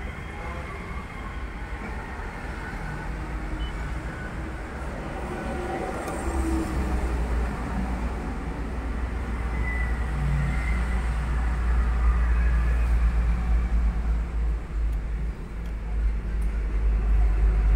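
Low, steady vehicle rumble from a car, getting louder about six seconds in.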